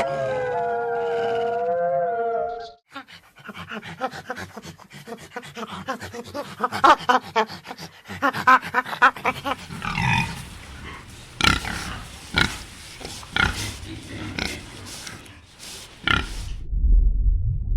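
Animal calls: a long call sliding up and down in pitch at first, then after a short gap a long run of rapid, rough pulsed calls with several sharp louder strikes, and a low rumble beginning near the end.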